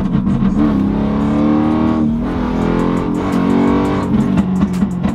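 A cammed car engine pulling under acceleration, heard from inside the cabin: its pitch climbs steadily, drops briefly about two seconds in as it shifts, then climbs again. Music with a steady beat plays over it.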